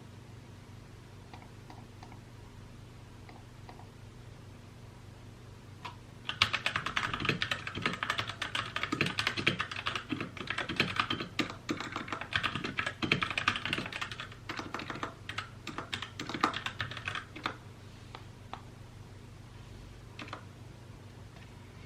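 Mechanical keyboard being typed on: a few faint taps at first, then a burst of fast, continuous typing lasting about eleven seconds, then a few scattered keystrokes near the end, over a low steady hum.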